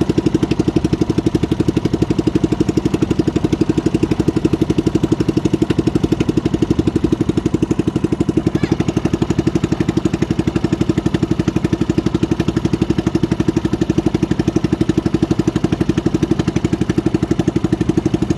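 A small motorboat engine running steadily with a fast, even beat.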